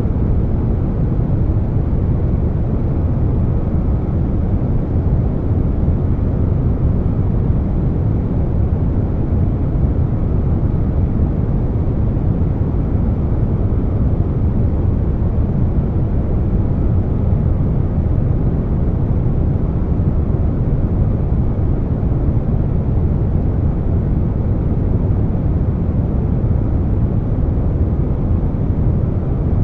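Air conditioner noise layered with brown noise: a steady, deep rushing hum that stays even and unchanging, heaviest in the low end.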